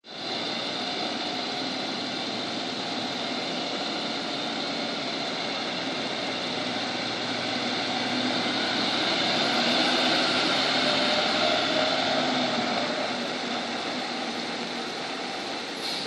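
1999 International F-2554 vacuum truck running, a steady mechanical drone with a faint high whine on top, growing somewhat louder around the middle and easing back near the end.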